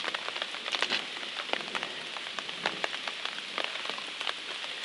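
Steady rain, with many separate drops striking close by as sharp irregular ticks.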